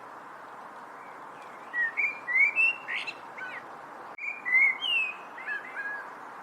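A songbird singing two short phrases of slurred whistled notes, the second starting just after the first ends, over a steady background hiss.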